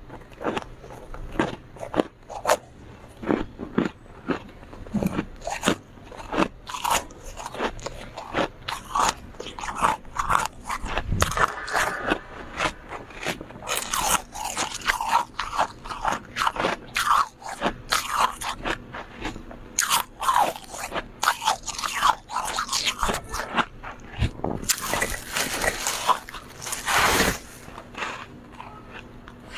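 Close-miked mouth crunching and chewing of soft, powdery freezer frost, a rapid irregular run of crisp crunches and bites, densest in the middle with a loud crunchy burst near the end.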